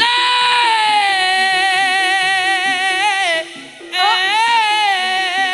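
Traditional music for a kuda lumping horse dance: a loud, long-held high melody note that slides down and is held for about three seconds, then after a brief break a second phrase with a wavering pitch, over a busy lower accompaniment of short repeated notes.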